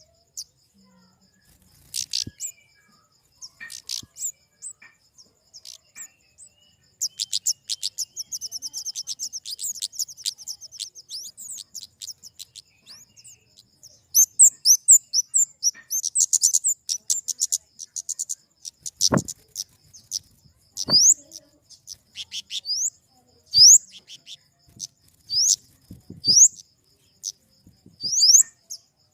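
Flowerpeckers (kemade) calling: high, thin chirps. Rapid ticking runs into a burst of dense twittering partway through, then settles into short rising notes repeated every second or two. Two sharp clicks are heard near the middle.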